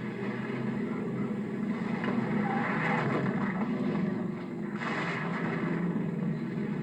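Several stock car engines running together as a pack of cars races round the track, a dense continuous engine din. It dips briefly a little past halfway and then swells again.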